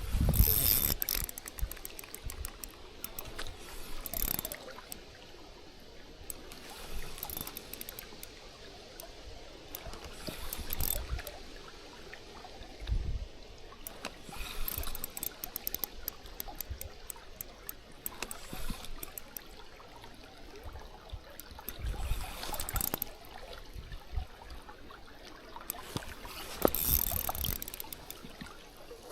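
Spinning reel being cranked in stretches to retrieve a lure, a fast fine clicking of the reel's gears, over moving river water. Low gusts of wind buffet the microphone now and then.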